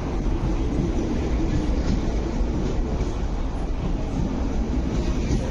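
MTR East Rail Line R-train, an electric multiple unit, running past along the platform: a steady rumble of wheels on rail and running gear.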